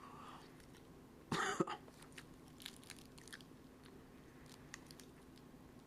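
A person chewing a mouthful of Twinkie sponge cake: faint wet mouth clicks throughout, with one short louder vocal noise from the throat about a second and a half in.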